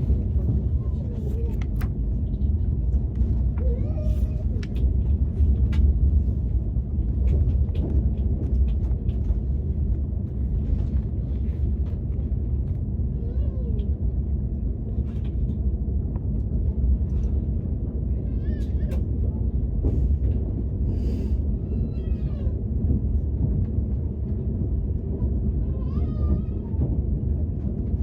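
KTX high-speed train running, heard from inside the cabin as a steady low rumble. Scattered light clicks come early, and a handful of short, high calls that bend up and down sound from about halfway through to near the end.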